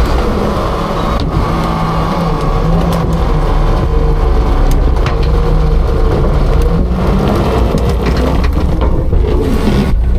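Autocar-Heil front-load garbage truck's diesel engine running at raised revs, steady and loud, with a steady whine above it and a few faint clicks.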